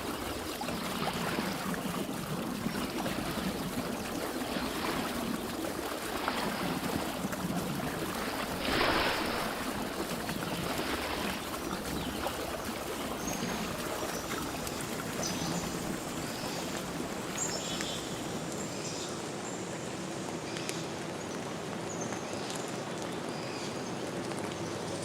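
Stream water flowing steadily, with a brief louder rush about nine seconds in.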